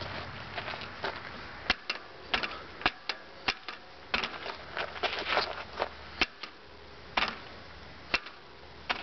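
RockShox Pike suspension fork clunking: a string of sharp, irregular knocks, roughly one or two a second, some louder than others.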